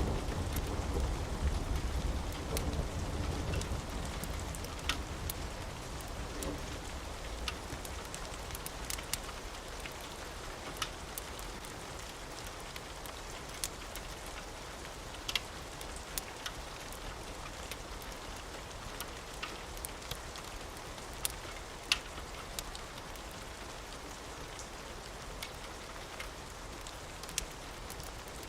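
Steady rain falling, with the low rumble of thunder dying away over the first few seconds. Sharp pops sound now and then over the rain.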